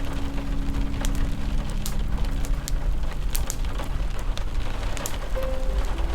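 Steady rain with a crackling fire, its sharp pops and snaps scattered throughout. A held low chord of music fades out in the first couple of seconds, and soft melodic notes begin near the end.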